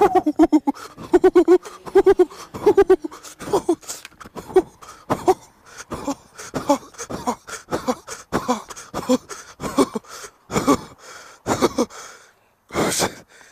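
A man panting hard in quick, rhythmic breaths about two a second, with voiced groans in the first few seconds, close to the microphone: heavy breathing from fright and exertion.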